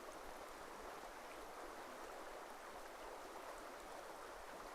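Faint, steady trickle of a small forest stream running over stones.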